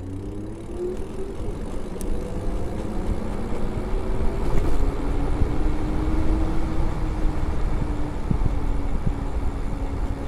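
Electric bike's motor whining, rising in pitch as it speeds up over the first second or so and then holding a steady note, over wind rumbling on the microphone that grows louder as the speed builds.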